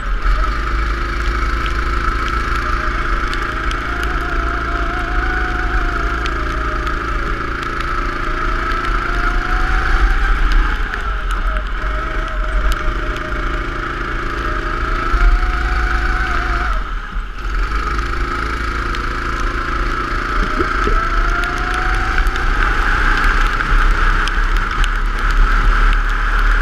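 Go-kart engine running at speed on a track, its pitch climbing and then dropping again every few seconds as it accelerates and slows, with heavy wind rumble on the microphone.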